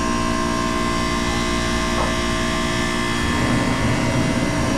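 Hoshizaki KM-1600 ice machine running, a steady machine hum with several steady tones. About three and a half seconds in, a deeper rumble comes in on top of it.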